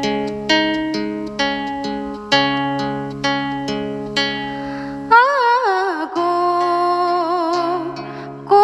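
Acoustic guitar introduction of a Nepali song, chords plucked about once a second. About five seconds in, a young woman's voice comes in singing long, wavering notes with vibrato over the accompaniment.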